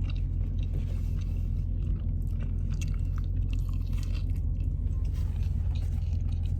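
Chewing and biting crispy food, likely fried chicken wings, close to the microphone: scattered small crunches and wet chewing over a steady low hum.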